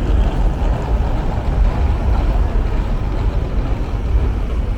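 Steady low rumble of city traffic on wet streets, with a faint hiss of rain above it.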